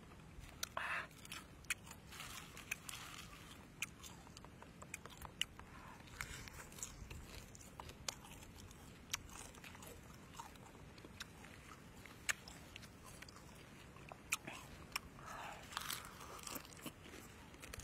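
Close-up chewing of roasted tamarind beetles: irregular sharp crunches as the crisp shells break between the teeth.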